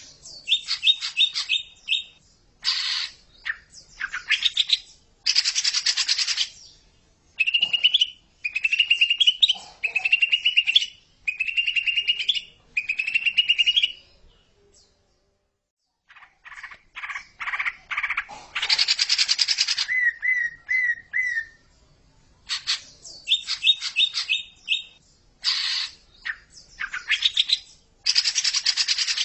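Green leafbird (cucak ijo) song in a string of varied phrases: rapid chattering note series, harsh buzzy bursts and repeated short rising whistles. The song breaks off completely for about a second and a half halfway through, then resumes.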